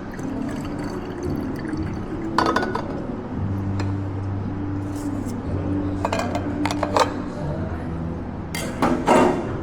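Glassware clinking a few times and liquid being poured while coffee is made, over a steady low hum.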